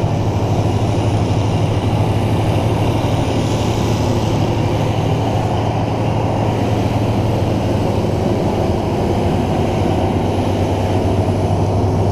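Superior 9000 grain crimping mill running steadily under load, crushing freshly harvested winter wheat, a loud continuous machine noise with a strong low hum.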